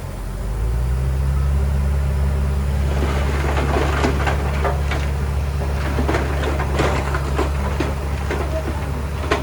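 Heavy earthmoving machine's diesel engine rising to a steady, loud, low drone under load about half a second in. From about three seconds on, irregular clanks and knocks sound over it.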